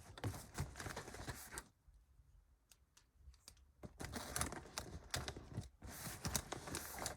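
Quick small clicks, taps and rustling of cosmetic items being handled and rummaged through in a makeup pouch. One burst runs for under two seconds, there is a quiet gap of about two seconds, and then the clicking and rustling resumes.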